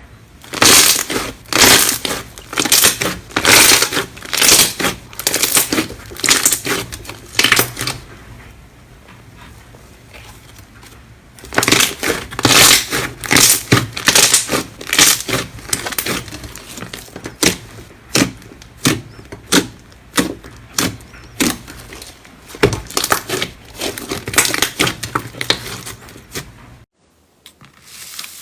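Slime being squeezed and pressed by hand, giving dense runs of sharp crackling and popping clicks. It goes quieter for a few seconds near the middle, then the crackling picks up again until it cuts off shortly before the end.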